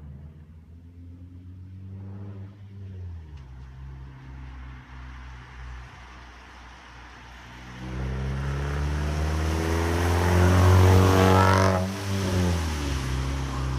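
Exhaust of a 2006 Hyundai Tiburon with its muffler and resonator deleted, as the car drives by. The engine note is low and fairly quiet at first, swells loud about eight seconds in as the car accelerates closer, then drops in pitch as it passes near the end.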